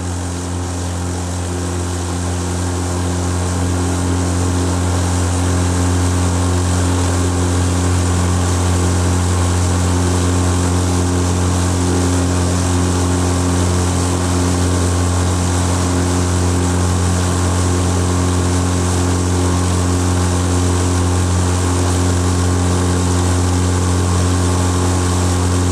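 Small motorboat's engine running steadily under load while towing a water-skier, with a constant hum and a rushing hiss over it. It grows a little louder over the first few seconds, then holds even.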